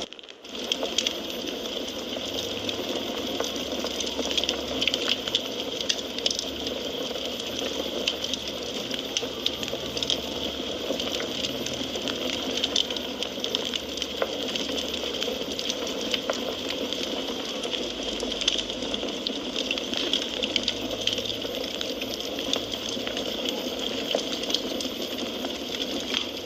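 Wood fire burning in a fireplace: a steady hiss of flame with frequent sharp crackles and pops from the burning wood. The sound drops out for a moment right at the start.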